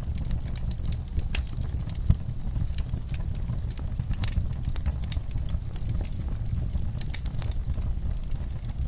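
Wood fire burning in a fireplace: a steady low rumble of flame with irregular crackles and snaps, one sharper pop about two seconds in.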